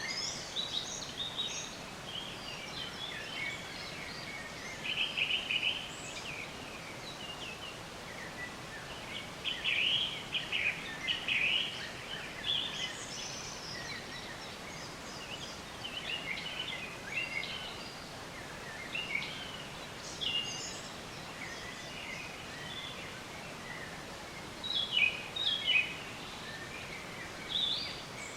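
Several songbirds chirping and trilling over a steady background hiss, in short bursts of quick notes every few seconds, with the loudest runs around ten seconds in and again near the end.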